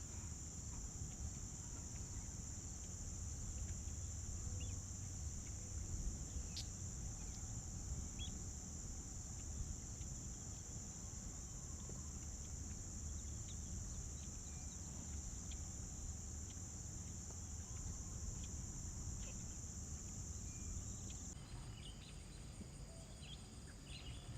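Steady high-pitched chorus of crickets or similar insects, with scattered short chirps over it. The chorus changes in character about 21 seconds in.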